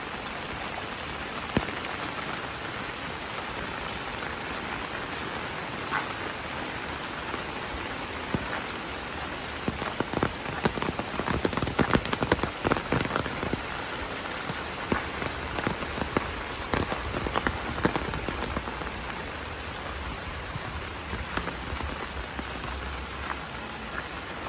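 Steady rain falling, with heavy drops tapping close by. The drops come thicker and louder for a few seconds around the middle.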